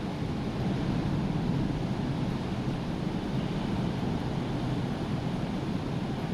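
Rough sea: surf rushing steadily with wind, a continuous low noise with no distinct breaks.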